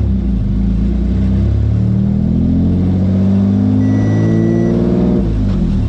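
Audi B8 S4's supercharged 3.0-litre V6 revving during a burnout. The pitch climbs from about two seconds in, holds high, then drops off near the end. A short steady beep sounds partway through.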